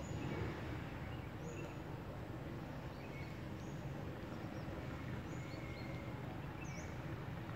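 Small birds chirping, short high calls every second or so, over a steady low outdoor rumble.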